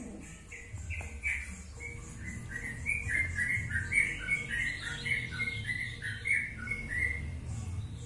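Small birds chirping: a quick run of short high notes, about three a second, stepping up and down in pitch, over a low steady hum.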